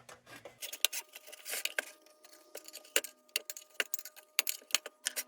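Light metallic clicks and rattles as a stiff, paint-covered burner on a Dietz Top Lift tin lantern is wiggled and worked to pull it free. The clicks come irregularly, several a second at times.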